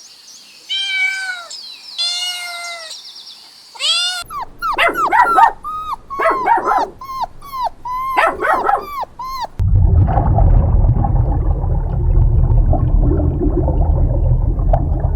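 A kitten meowing, three high calls, then a puppy yipping in rapid short high yelps. From about ten seconds in, a steady low rumble takes over.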